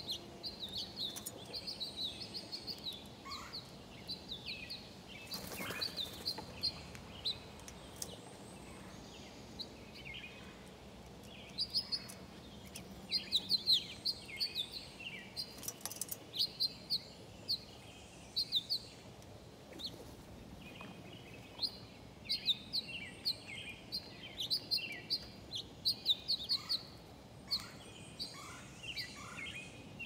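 Birds chirping: many short, high chirps in quick runs, with a few lower notes mixed in. There are two brief rushing noises, about five seconds in and again near the middle.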